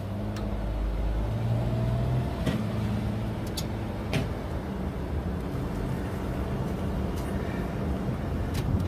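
Car engine and road noise heard from inside a moving car: a steady low hum, with a few faint ticks.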